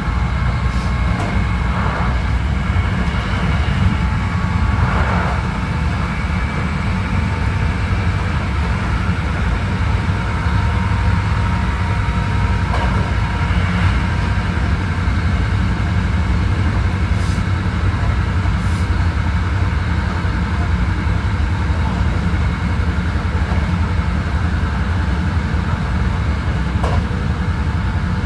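Hankyu 9300 series electric train with Toyo IGBT drive running steadily, heard from inside the car: a steady low rumble with faint steady tones above it and a few faint ticks.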